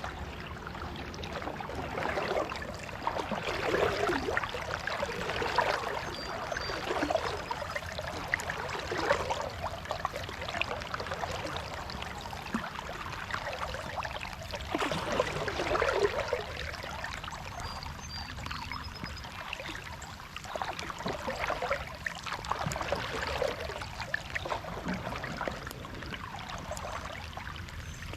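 Kayak paddle strokes in lake water: a splashing, trickling wash swelling about every one and a half seconds as the blades dip and drip, easing off for a few seconds past the middle.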